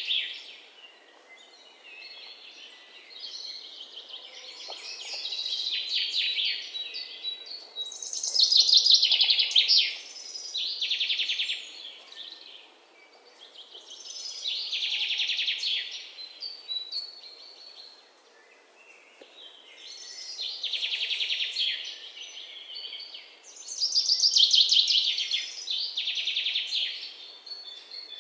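Songbird singing in repeated bouts of rapid, high chirps, a new phrase every five or six seconds, over a faint steady outdoor hiss.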